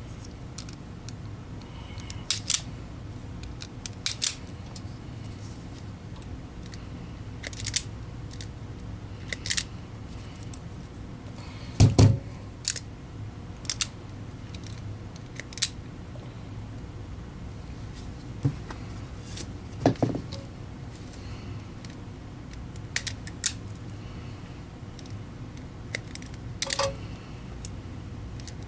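Automatic wire stripper clicking and snapping as wires are stripped: a dozen or so sharp clicks at uneven spacing, some in quick pairs, the loudest about twelve and twenty seconds in, over a low steady hum.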